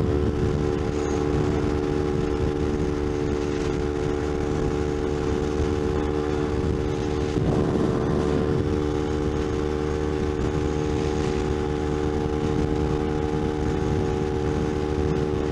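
Kawasaki Ninja 250's parallel-twin engine running at a steady cruising speed, its pitch holding level, with wind and road rush.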